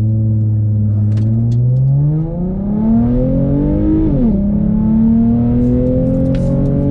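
2017 Ford Mustang's 3.7L Cyclone V6, exhaust through an X-pipe with the mufflers deleted, accelerating hard from a launch. The engine note climbs steadily, drops sharply at an upshift about four seconds in, then climbs again in the next gear.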